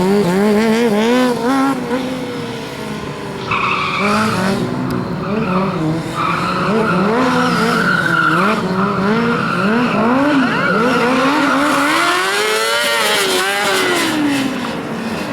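Motorcycle engine revving up and down in quick repeated blips while the rear tyre squeals in a long steady screech from about four seconds in, as the bike is drifted. Near the end the revs sweep up and back down once.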